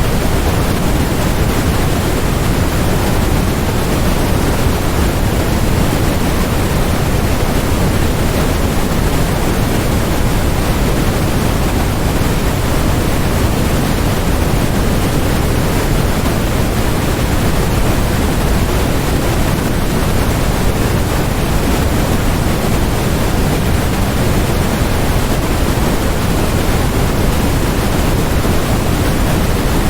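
Steady, unchanging white-noise hiss spread evenly across the range, with most weight in the low end.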